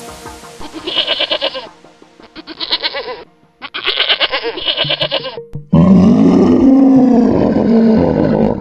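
An animal's long, wavering call of about three seconds near the end, loud, after a few shorter bursts of sound, with music underneath.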